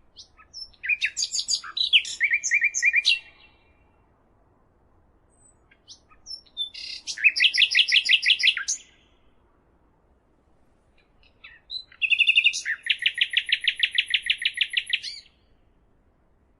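A songbird singing three separate song phrases with pauses between them; each phrase starts with varied high notes and ends in a fast trill of repeated notes, about eight a second.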